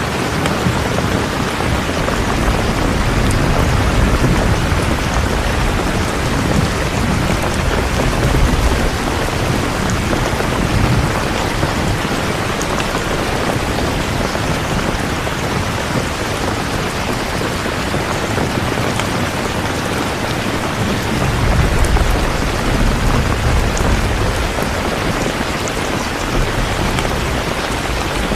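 Steady, heavy rainfall. Low rolls of thunder rumble underneath, swelling from a few seconds in and again about three-quarters of the way through.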